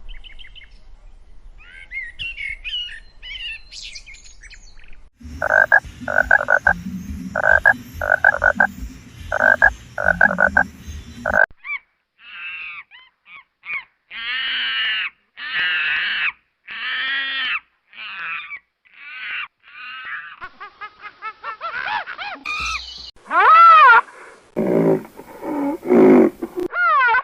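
Several different animal calls in turn: short chirps, then a run of rapid pulsed calls in groups for about six seconds, then a string of separate rising-and-falling calls, loudest near the end.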